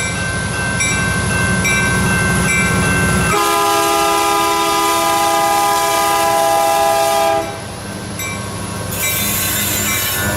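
O gauge model train running on the layout with a rhythmic rumble on the track. About three seconds in, its sound system blows a single long horn blast lasting about four seconds, then the running rumble returns.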